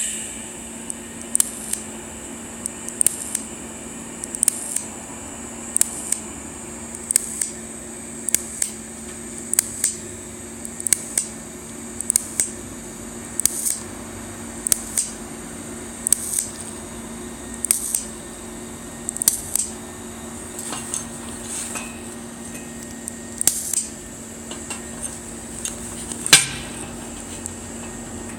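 WT-TIG160 TIG welder laying a rapid run of tack-weld spots on thin stainless pipe: short arc bursts about every 0.7 s, often in pairs, over a steady hum. One burst near the end is louder.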